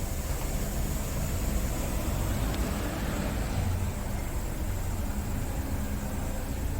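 Scania R650 truck's V8 diesel engine running steadily with an even low hum.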